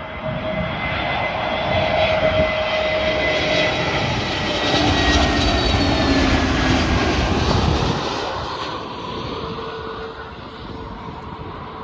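Jet airliner passing low overhead as it comes in to land: the engine noise swells, stays loud for several seconds with a whining engine tone that drops slightly in pitch, then fades after about eight seconds.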